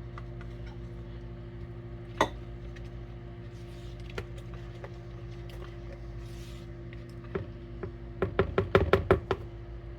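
Kitchen utensil knocking and clinking against a mixing container while it is cleaned out: one sharp knock about two seconds in, a few light clicks, then a quick run of knocks near the end, over a steady low appliance hum.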